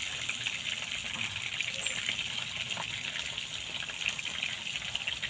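Small birds frying in cooking oil in a pan on a portable gas stove: a steady sizzle with fine crackles.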